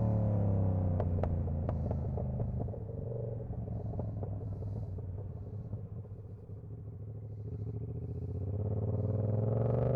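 Yamaha R7's 689 cc CP2 parallel-twin engine under riding, its pitch falling as the bike slows at first, then running low and quieter before the revs climb steadily again near the end as it accelerates.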